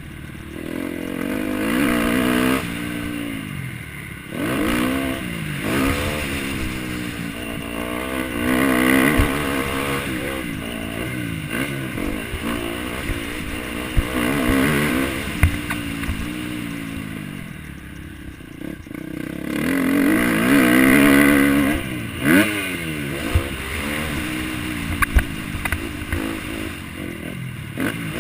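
A motocross bike engine in an MX1 race, revving hard and shutting off again and again, its pitch rising and falling repeatedly, with scattered sharp knocks and clatters.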